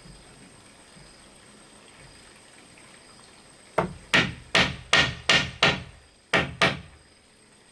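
Eight sharp blows of a tool striking wood, each ringing briefly: six in a quick, even run about halfway through, then two more after a short pause.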